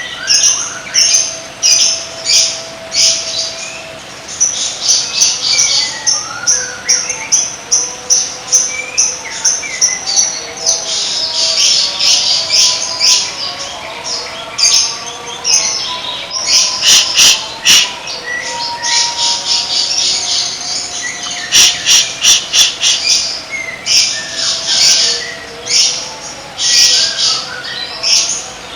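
Songbirds singing in a dense, fast stream of high chips, trills and sharp clicking notes, with several birds overlapping. A few thin, steady whistled notes run underneath.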